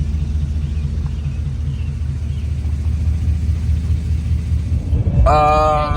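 Low, steady rumble of a vehicle driving, heard from inside. About five seconds in, a held pitched sound comes in over it.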